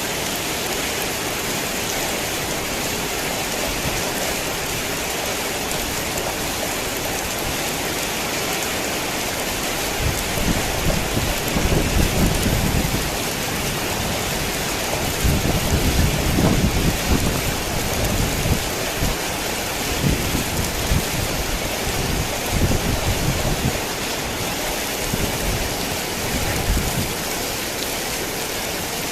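Heavy rain falling steadily, with low rolling rumbles of thunder that come and go several times from about a third of the way in.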